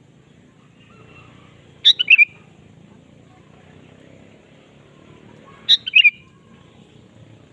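Sooty-headed bulbul (kutilang) calling: two short bursts of three or four quick notes, about two seconds in and again about six seconds in, over a faint steady background.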